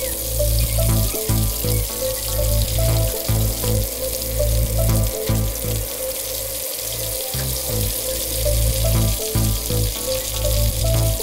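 Hot oil sizzling steadily as stuffed ring breads deep-fry in a pan, under background music with a pulsing bass line and a simple melody.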